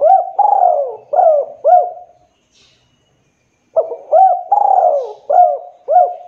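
Spotted dove cooing: two phrases of about five coos each, the middle coo of each phrase drawn out longest, with a pause of about a second and a half between the phrases.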